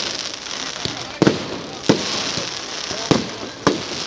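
Fireworks bursting: four sharp bangs spaced irregularly over a steady crackling hiss.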